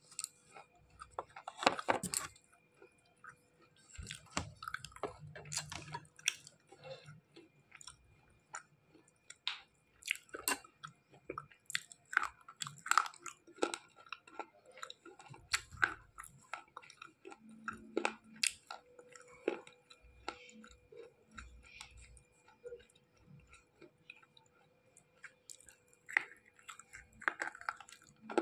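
Slate pencils being bitten and chewed close to the microphone: irregular sharp crunches mixed with chewing.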